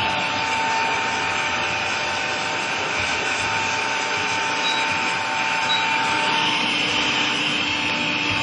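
Vacuum cleaner running steadily: airflow rush with a constant motor whine.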